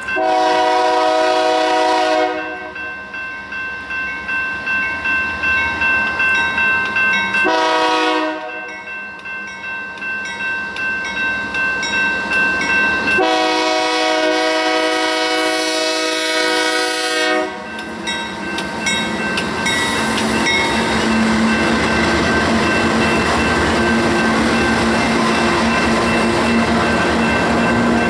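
Diesel freight locomotive's multi-note air horn sounding three blasts: a two-second one at the start, a short one about eight seconds in, and a long one of about four seconds around the middle. Underneath, a rhythmic clickety-clack of train wheels over rail joints runs at about two beats a second, and from about twenty seconds in the passing train's steady rumble and engine hum take over.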